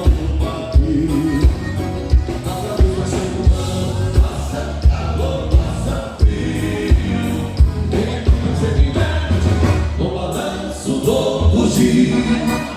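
Live amplified band music in the gaúcho style, with group singing over a steady drum beat.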